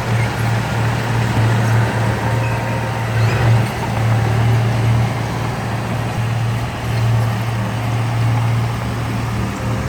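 Heavy diesel engine of earthmoving machinery running steadily with a constant low drone.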